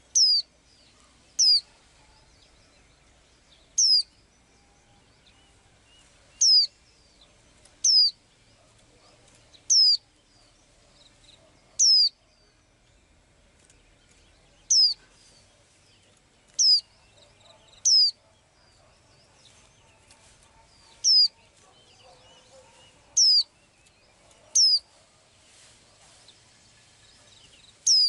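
A small bird calling: a single short, high note that slides steeply down in pitch, repeated about fourteen times at uneven gaps of one to three seconds.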